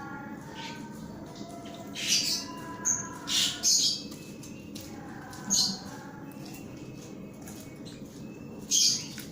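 White-rumped shama giving short, harsh squawking calls, six in all with uneven gaps, one of them with a brief high whistle.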